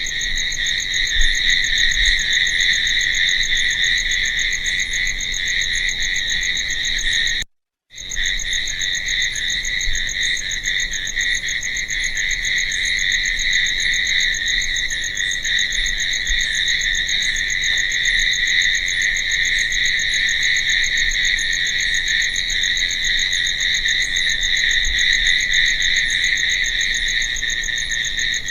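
Crickets chirping in a steady, continuous chorus. The sound cuts out to silence for about half a second a little over a quarter of the way in, then carries on.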